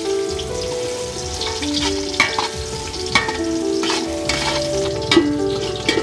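Food sizzling as it fries in a pan, with a few sharp clinks of a utensil as it is stirred. Background music carries a melody throughout.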